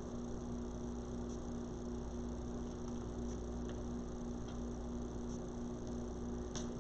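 Steady electrical hum at a constant pitch, with a few faint light ticks.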